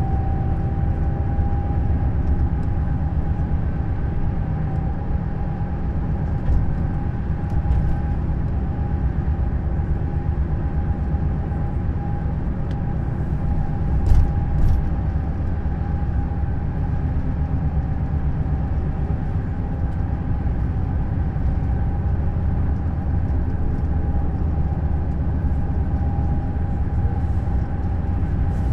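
2008 Neoplan Skyliner N 1122/3C double-decker coach running at a steady pace: a low engine drone and road noise, with a steady whine held at one pitch throughout. A couple of short knocks come about halfway through.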